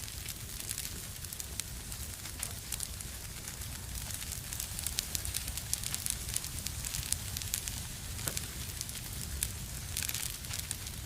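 Wood fire in a fireplace crackling: frequent sharp pops and snaps over a steady low rumble of the flames, busiest in the middle and again near the end.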